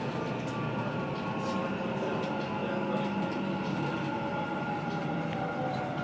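Dubai Metro train running, heard from inside the carriage: a steady rumble with faint whining tones from the electric drive that drift slightly lower in pitch.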